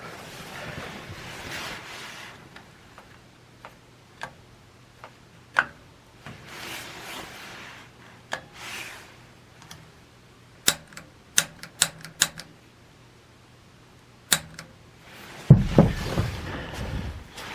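Sharp single clicks, scattered at first and then several in quick succession, typical of the piezo igniter on a gas water heater's pilot being pressed repeatedly while the pilot is relit. Soft hissy stretches lie between the clicks, and a louder low rumble comes near the end.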